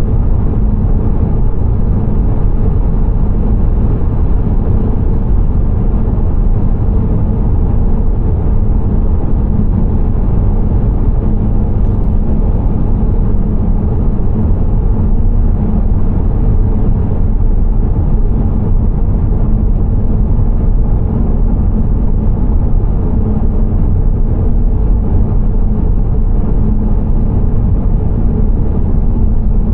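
Steady low rumble of a car driving, engine and road noise, with no change throughout.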